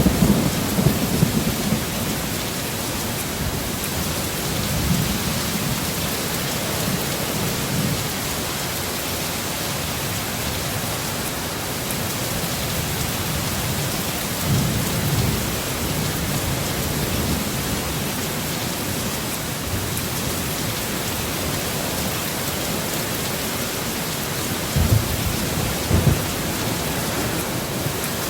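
Steady heavy rain, with low rumbles of thunder swelling near the start, in the middle, and again near the end.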